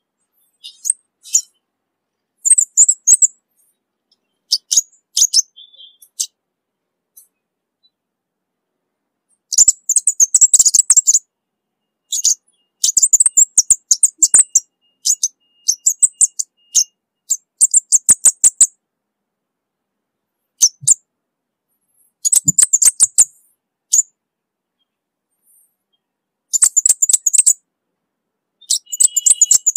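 Orange-bellied flowerpecker singing: bursts of rapid, very high-pitched ticking notes, each burst under a second to about a second and a half long, separated by pauses of a second or more.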